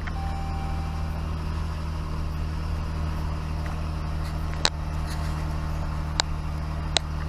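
A 2012 Jeep Grand Cherokee's V6 engine idling steadily, with a brief steady tone just after the start and three sharp clicks in the second half.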